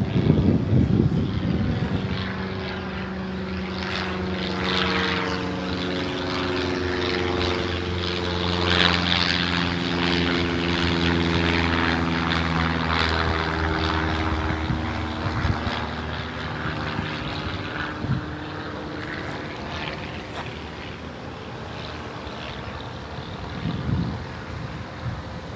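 Propeller-driven airplane flying past overhead: a steady engine drone that swells to its loudest about a third of the way in, its tones shifting in pitch as it passes, then slowly fades.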